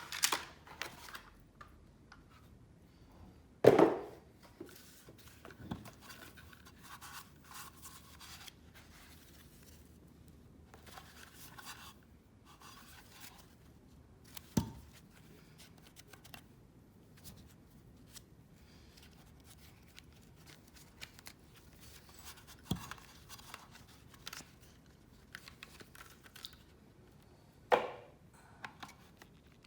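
Scrap being taken apart by hand: quiet scraping, tearing and small clicks, broken by four sharp knocks spread through the stretch.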